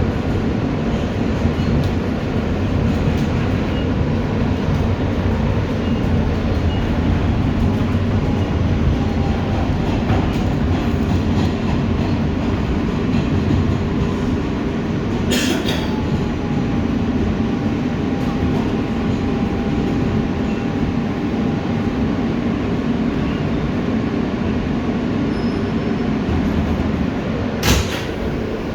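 Steady rumble inside an R160B Siemens subway car, with a faint whining tone in the middle and two short sharp noises, about halfway and near the end.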